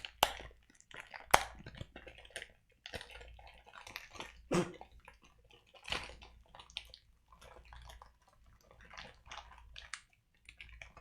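Plastic snack packaging crinkling and crackling in the hands as it is worked open, with irregular sharp clicks and snaps, the loudest about a second in.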